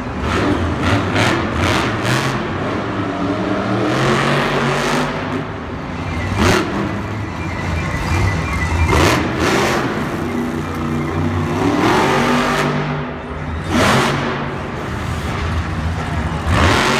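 Monster truck engines revving hard again and again, their pitch climbing and falling with each blip of the throttle, with music playing under them.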